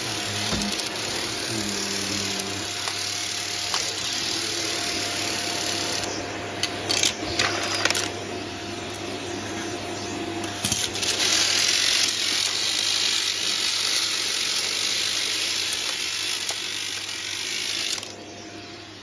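Vacuum cleaner running steadily while it sucks up a dry mess test, with bursts of crackling rattles as debris goes up the nozzle and hose about six to eight seconds in and again around eleven seconds. Near the end the noise drops sharply to a fainter hiss.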